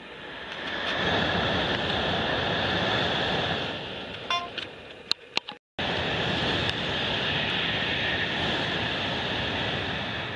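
Shinkansen high-speed train passing at speed: a loud, steady rush of air and rolling noise. About halfway it breaks off with a few clicks and a moment of silence, then rushes on again and fades near the end.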